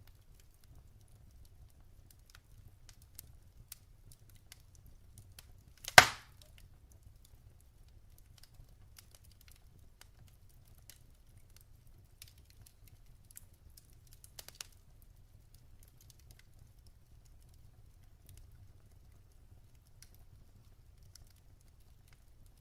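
Wood fire burning in a fireplace: faint scattered crackles over a low rumble, with one loud sharp pop of a log about six seconds in and a smaller burst of crackles near the middle.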